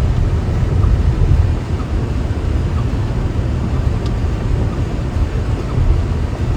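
Steady low rumble of a Tesla electric car cruising on the highway, made up of tyre and wind noise with no engine sound.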